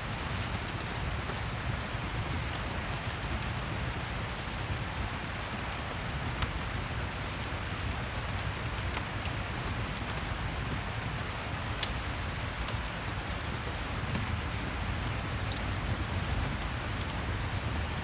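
Steady rain ambience with a low rumble, mixed with a fireplace: small scattered clicks of crackling sit over the even hiss of the rain.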